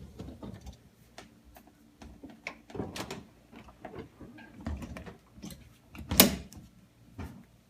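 A dishwasher's door and racks being handled: a string of clicks and knocks, the loudest a sharp knock about six seconds in, over a faint steady hum.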